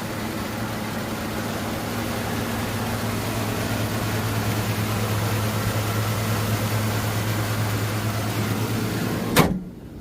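2012 Chevy Silverado pickup giving off a steady mechanical hum with a low tone. It ends in one sharp knock near the end, after which the sound drops away.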